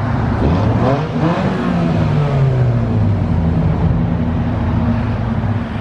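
A motor vehicle's engine running close by as it drives past, its note sliding down in pitch over the first few seconds.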